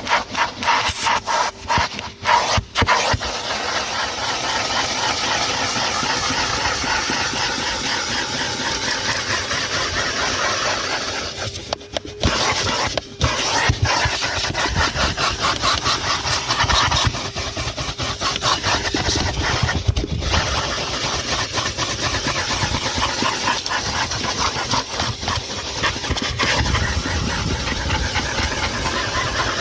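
Numatic Henry HVR200-22 canister vacuum cleaner running: a steady motor whine under rushing suction air. The sound dips and chops in the first few seconds and drops briefly about twelve and thirteen seconds in.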